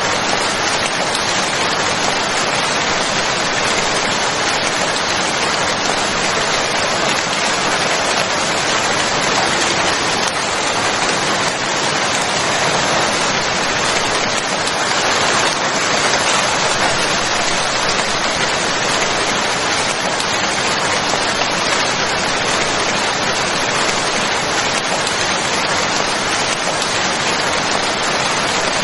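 Steady heavy rain falling, a dense even hiss of many drops.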